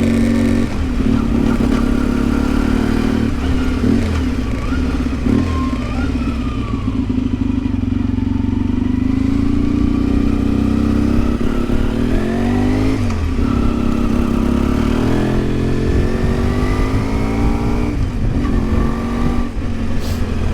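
Yamaha XTZ 750 Super Ténéré's parallel-twin engine under way, revs rising in each gear and dropping at each shift, several times over.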